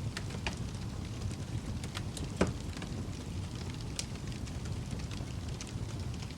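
Wood fire in a fireplace crackling, with a steady low rumble of burning and scattered sharp pops, the loudest about two and a half seconds in.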